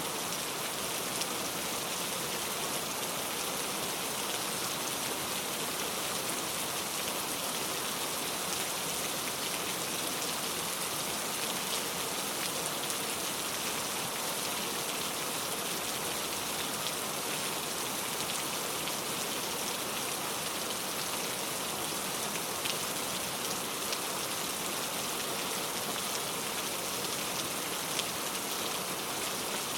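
Steady heavy rain falling, an even hiss with scattered drop ticks and no thunder.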